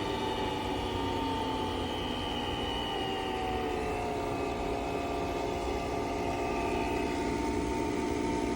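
Nespresso Vertuo Next coffee machine running: a steady motor hum and whine with several tones that slowly fall in pitch over the first few seconds, then hold steady.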